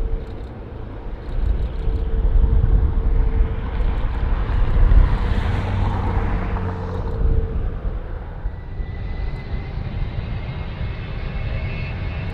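Jet airliner engines: a deep rumble and rushing noise that swells about halfway through, with steady engine whine tones coming in over the second half.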